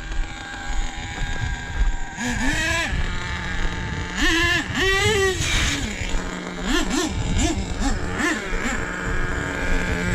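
Nitro RC truck engine revving hard in bursts, its pitch climbing and dropping sharply several times between stretches of steady running.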